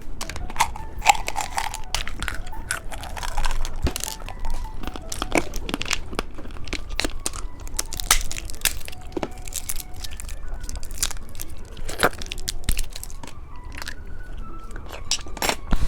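Plastic candy packaging being handled and torn open: irregular sharp crinkles, crackles and crunches.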